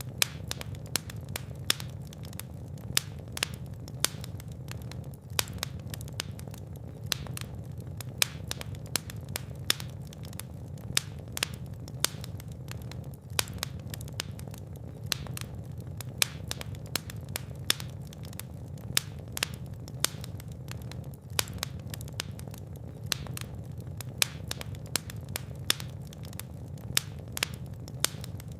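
Fireplace fire burning, with frequent irregular sharp crackles and pops over a steady low rumble of the flames.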